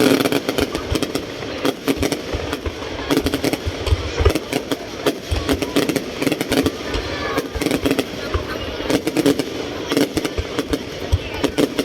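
Fireworks going off in a dense, irregular series of bangs and crackles.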